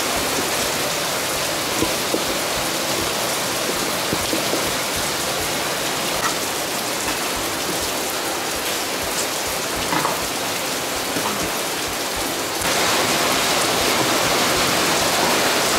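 Steady rain falling, an even hiss that gets louder about two-thirds of the way through. A few faint clinks of a metal spatula against a wok.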